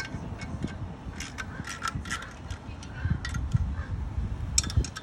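Irregular metallic clinks and knocks of hand tools and metal parts being handled, some with a short ring, over low handling and rubbing noise, busiest near the end.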